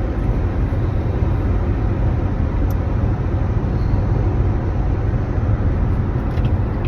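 Steady low rumble with an even background noise, no distinct events.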